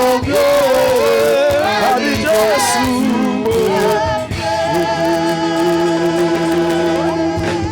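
Gospel worship singing with musical accompaniment: sung phrases move for the first few seconds, then settle into one long held note with vibrato from about halfway through.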